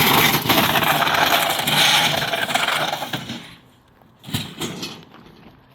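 A microwave oven dragged along the ground, giving a dense scraping and rattling for about three and a half seconds, then a couple of lighter knocks.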